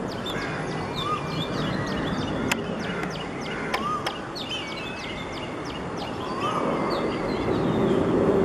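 Small birds chirping rapidly, many short high chirps a second. A rising-and-falling whistled call comes back every few seconds, over steady low background noise.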